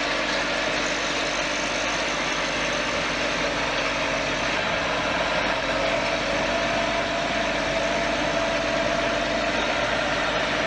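A heavy machine's engine running steadily, with a constant mechanical noise.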